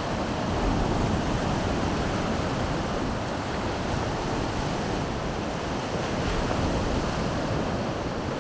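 Baltic Sea surf washing steadily onto the beach, with wind rumbling on the microphone.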